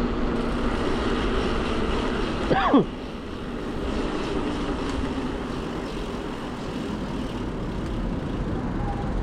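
Road and wind noise from riding an electric bike through city traffic. A steady humming drone stops about three seconds in, just after a brief loud squeak that rises and falls in pitch.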